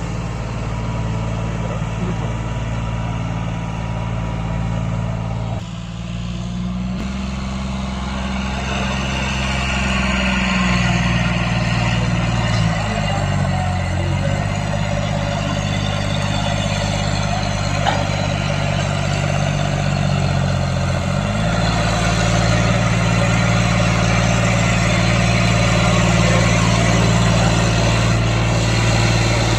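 Tractor engine running steadily, its pitch dipping and shifting a few times as the engine speed changes.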